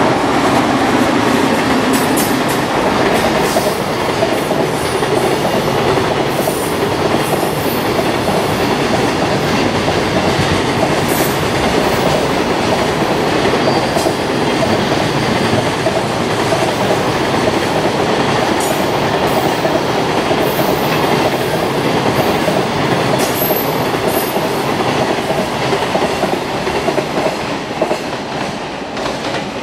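Long freight train of container wagons running past: a steady rumble with wheels clattering over the rails and brief high-pitched wheel squeals here and there. The sound eases a little near the end as the tail of the train goes by.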